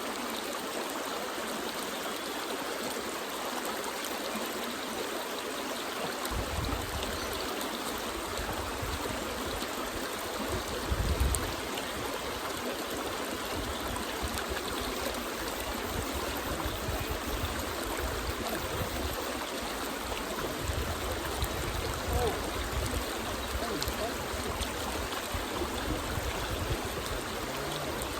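Creek water flowing in a steady rush. From about six seconds in, an uneven low rumble joins it.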